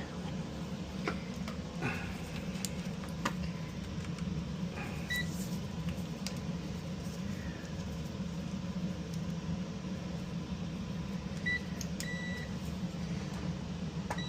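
A Maytag dryer hums steadily under test, with a few faint clicks early on. Short high electronic beeps come about five seconds in, then twice more near the end.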